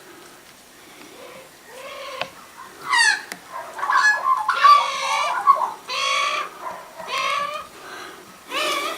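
Birds calling: a run of about six harsh, pitched calls, each under a second long, starting about two seconds in, with one sharply falling call near three seconds and a longer call around five seconds.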